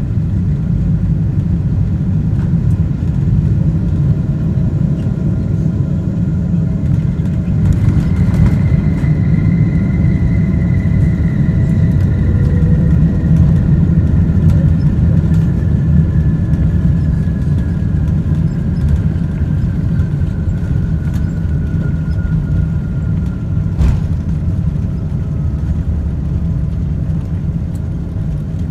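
Loud, steady rumble inside a Boeing 777-200ER's cabin during landing, with a whine that slowly falls in pitch from about a quarter of the way in until near the end, and a couple of faint knocks.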